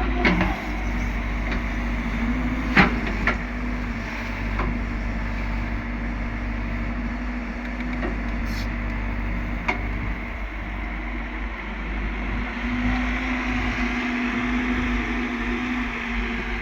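Diesel engine of an earthmoving machine running steadily, with a few sharp knocks about three seconds in and again near ten seconds.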